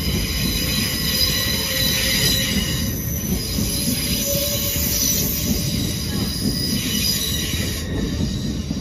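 Hull Trains Class 802 train moving through the platform, its wheels giving a steady high squeal of several held tones over a low rumble.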